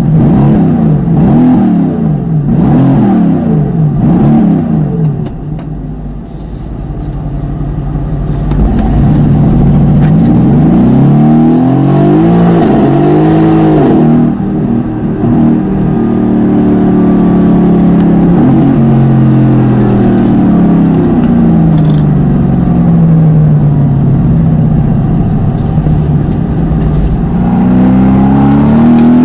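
Tuned Mercedes-AMG GT S's twin-turbo V8 revving hard. Several quick rises and falls in pitch come first. Then it climbs repeatedly as it accelerates, falls away slowly over several seconds, and rises again near the end.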